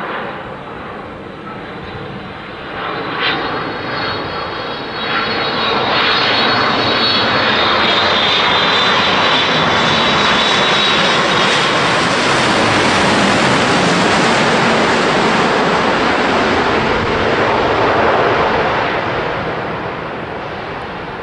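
Boeing 787 jet airliner's turbofan engines passing: a high engine whine over the jet noise, building to a loud, steady peak for about twelve seconds, then fading near the end.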